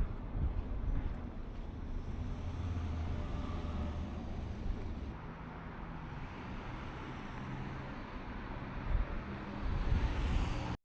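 City street traffic: the steady noise of vehicles running past, with a couple of louder passes near the start and near the end, and the sound cuts off suddenly at the very end.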